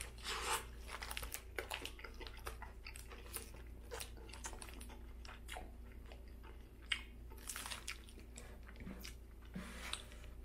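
A person biting into a Burger King Whopper about half a second in, then chewing it with soft, wet clicks and crackles. The sound is quiet.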